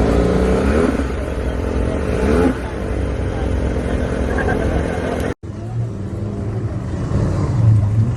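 Car engines running with short rising revs near the start, about two and a half seconds in, and again at the end, over a steady low engine rumble.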